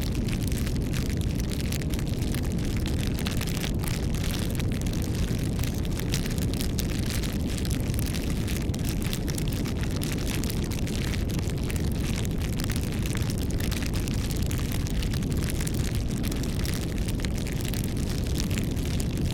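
Bonfire burning: wood crackling with frequent small pops over a steady low rumble.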